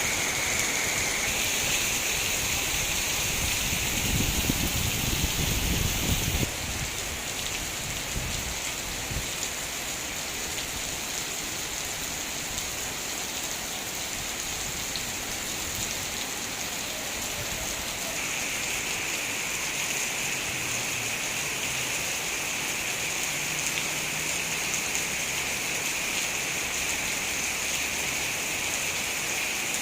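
Heavy rain falling steadily, an even hiss of drops on surfaces, with a low rumble a few seconds in.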